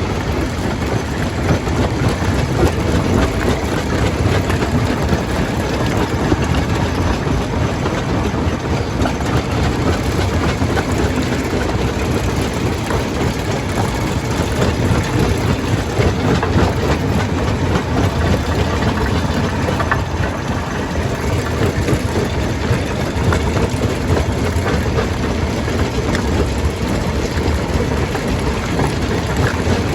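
Stone crusher running under load, its heavy machinery drone mixed with a continuous clatter and grinding of rock being crushed. Steady throughout.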